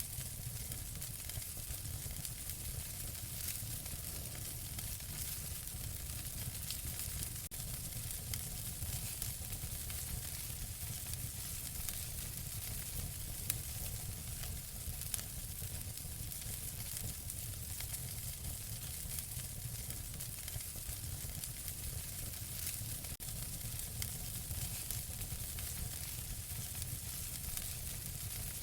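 Wood fire burning in a fireplace: steady crackling over a hiss and a low rumble, with a couple of sharper pops about halfway through.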